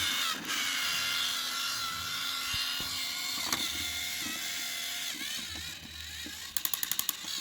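Battery-powered TrackMaster toy train engine running along plastic track, its small electric motor and gears whirring steadily, with a quick rattle of clicks near the end.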